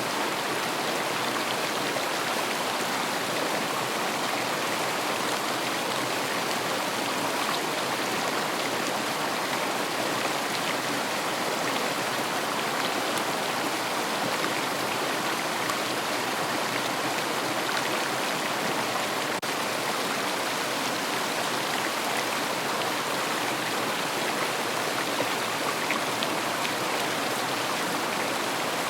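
River water flowing over stones, a steady rushing babble.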